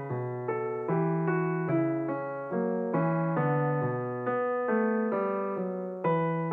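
Calm solo piano music, a gentle flowing melody of notes that each ring and fade, in a slow steady rhythm.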